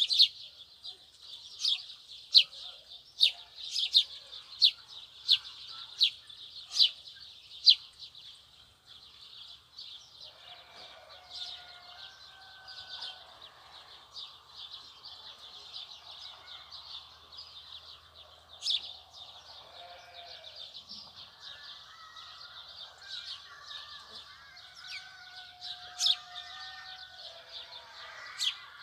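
Birds calling: a sharp, high chirp repeated about once a second for the first eight seconds, then only now and then. Softer, lower warbling calls from other birds continue underneath.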